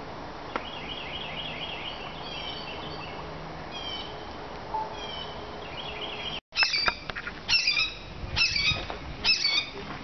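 Birds chirping in woodland, a few short repeated notes over a steady outdoor hiss. After an abrupt cut about six seconds in, louder, sharp bird calls repeat about every half second.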